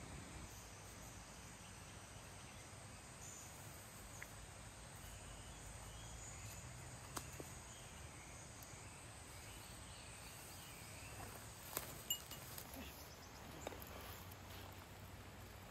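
Faint outdoor ambience with insects chirping, and a few short sharp clicks, the sharpest about twelve seconds in.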